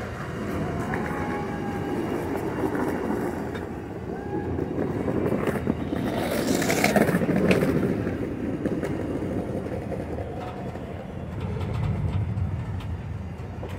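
Passenger coaches of a slow-moving train rolling past, steel wheels rumbling on the rail with scattered clicks, loudest about seven seconds in.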